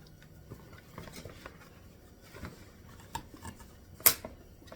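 Rustling and light clicks of plastic parts and packaging being handled while a box is unpacked, with one sharp click about four seconds in.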